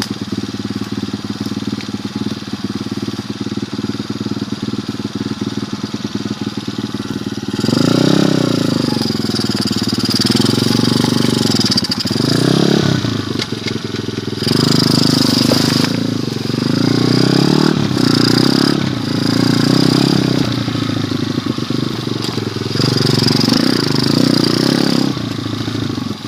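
Pit bike engine idling steadily, then revved hard about seven seconds in, rising and falling in pitch five or six times.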